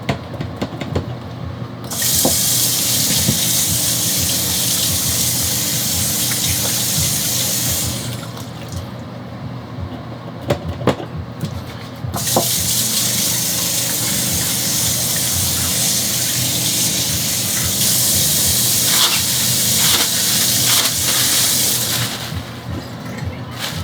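Bathroom sink faucet running at full flow, turned on twice: about six seconds, then after a pause about ten seconds, each starting and stopping sharply.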